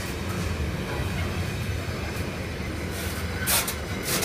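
Container freight wagons rolling past: a steady low rumble of steel wheels on the rails, with two sharp clacks from the wheels, one about three and a half seconds in and one near the end.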